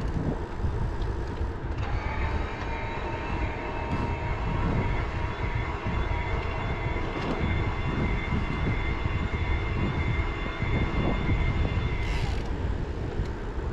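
Wind buffeting the microphone of a moving e-bike rider, a dense low rumble throughout. A steady high whine starts abruptly about two seconds in and cuts off about twelve seconds in.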